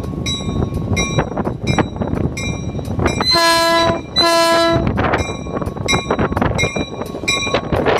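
Caltrain commuter train pulling in along the platform, wheels rumbling and its bell ringing with regular strokes, a little under two a second. Two horn blasts of under a second each sound back to back a little before the middle.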